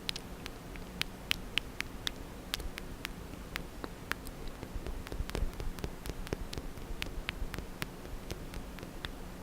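Close-miked ASMR mouth sounds: wet mouth clicks and smacks, irregular, several a second.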